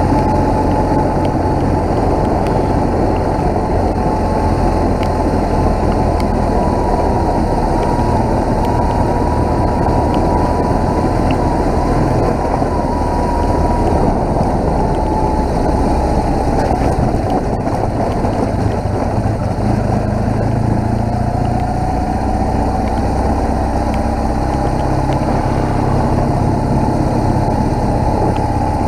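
BMW motorcycle riding along at a steady pace: continuous engine drone mixed with wind and road rush, with a thin whine on top that dips slightly and comes back about two-thirds of the way through.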